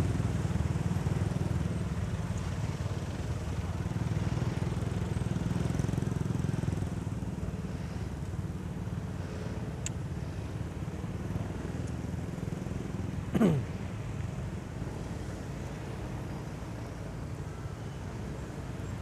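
Motorcycle riding on the road: a steady low rumble of engine and wind. About thirteen seconds in, a brief squeal slides quickly down in pitch.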